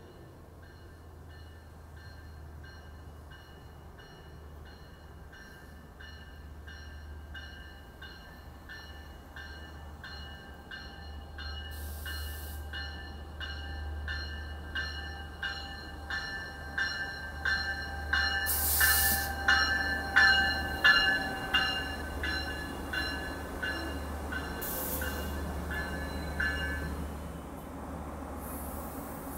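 A Long Island Rail Road bi-level diesel push-pull train pulls into the station with a low rumble that grows louder as it nears. A warning bell rings about twice a second throughout, louder as the train approaches, and stops near the end. A few short bursts of hiss cut in along the way.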